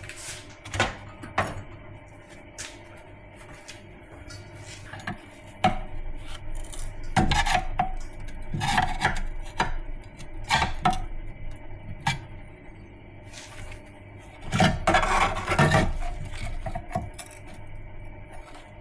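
Irregular metal clanks and scrapes from hand tools working on a steel chassis bracket: scattered single knocks, with a few short clusters of ringing metallic hits.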